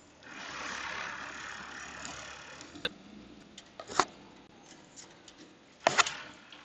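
Car driving on a snowy, slushy road, heard from inside the cabin: a hiss swells and fades over about two seconds, then a few sharp clicks and knocks, the loudest about four and six seconds in.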